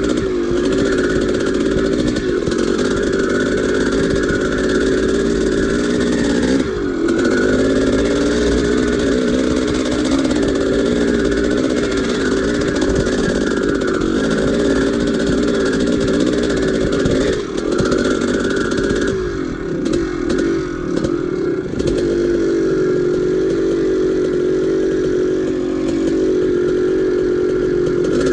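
1983 Maico 490 two-stroke single-cylinder dirt bike engine running hard at fairly steady revs. The revs dip and swing up and down for a few seconds about twenty seconds in, then settle again.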